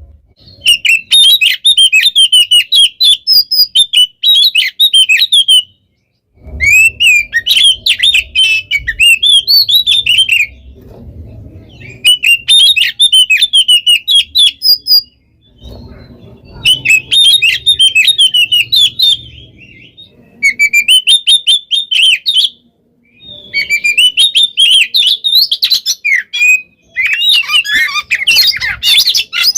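Oriental magpie-robin (kacer) singing loud, rapid, varied phrases. The song comes in bursts of a few seconds, with short pauses between them.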